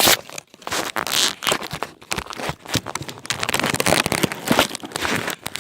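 Handling noise on a phone's microphone: fingers rubbing, scraping and knocking on the phone as it is moved and repositioned. The dense crackling is loud and cuts off suddenly near the end.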